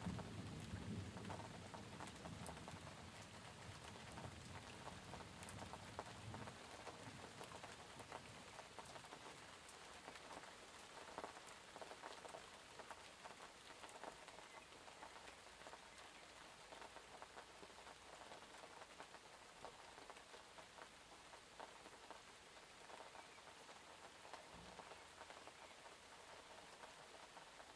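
Soft, steady rain pattering on surfaces, with many small drop ticks. The low rumble of a thunder roll dies away in the first couple of seconds.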